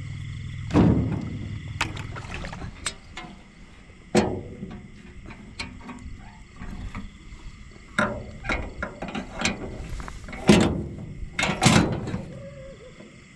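Small paddled boat being handled: irregular wooden knocks and clunks, five of them louder than the rest, among lighter clicks and rattles. A steady high-pitched drone sits underneath.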